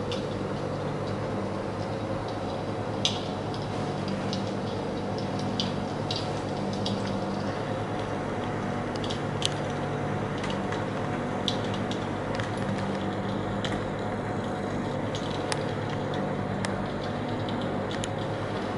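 Fire in a fireplace crackling, with irregular sharp pops over a steady low hum.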